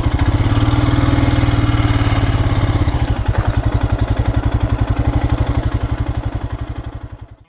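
Royal Enfield Himalayan's single-cylinder engine running with a steady pulsing beat, fading out near the end.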